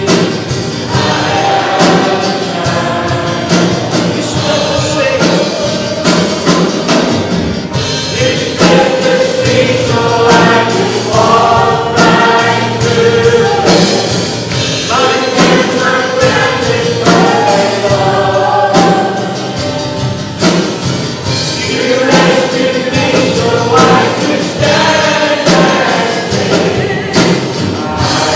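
Gospel song sung by a choir with instrumental accompaniment and a steady beat.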